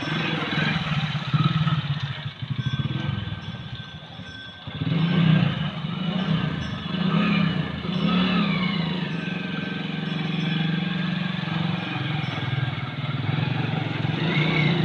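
Motorcycle engine running under throttle while riding through water; its note dips about four seconds in, then rises again a second later.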